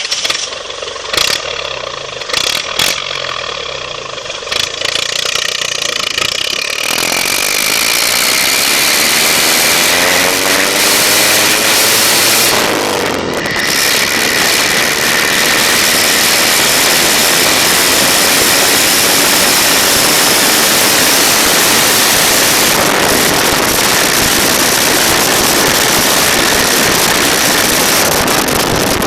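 Ford F100's Perkins four-cylinder diesel with an open, straight-piped exhaust running low with a few sharp knocks, then accelerating from about seven seconds in, rising in pitch, dropping and rising again as it goes up through the gears. It then runs steadily at speed under heavy wind noise.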